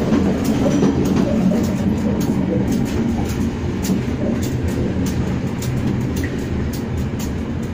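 Moving passenger train heard from inside the coach: a steady rumble of wheels running on the track, with many scattered sharp clicks from the rails.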